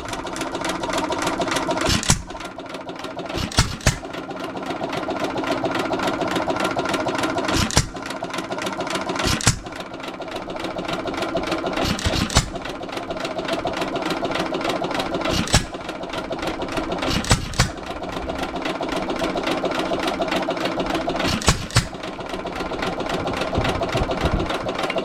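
Antique single-cylinder stationary gas engine running, hit-and-miss style: a sharp firing bang every couple of seconds at uneven gaps, with a steady mechanical clatter as it coasts between firings. It is running a little fast, its speed controller set all the way to fast.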